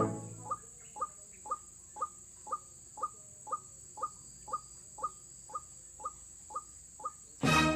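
White-breasted waterhen (ruak-ruak) calling: a short note falling in pitch, repeated evenly about twice a second, about fourteen times. Music cuts in loudly near the end.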